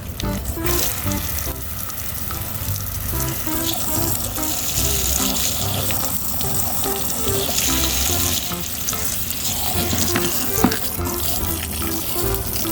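Steady hiss of running water, over background music of short repeated notes.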